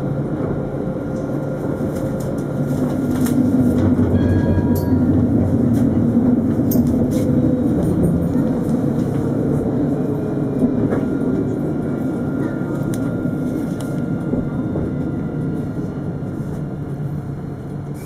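Alstom Citadis 402 tram running, a steady rumble that grows louder about three seconds in, with a motor whine falling in pitch as it slows in the second half.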